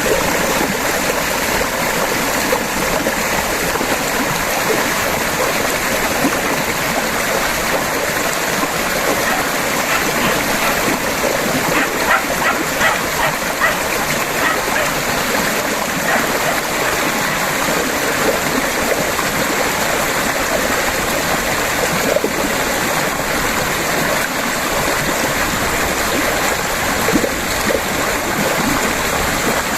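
River water babbling over rocks in a steady rush, with small splashes and gurgles.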